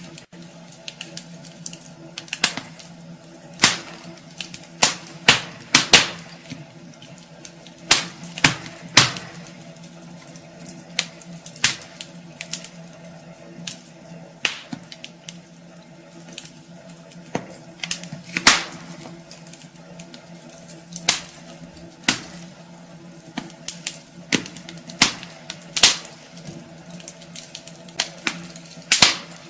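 Wood fire crackling in a fireplace, with irregular sharp pops and snaps that come in quick clusters at times.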